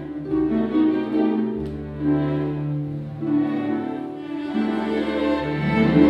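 Classical music on bowed string instruments: a slow melody of long, held notes over sustained low notes that change every second or two.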